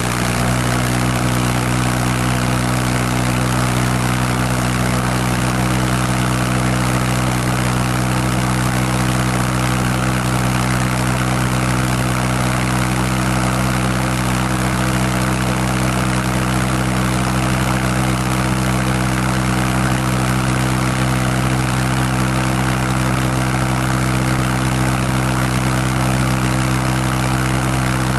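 Pulse jet engine running steadily: a loud, even drone held at one pitch, with a rushing noise over it.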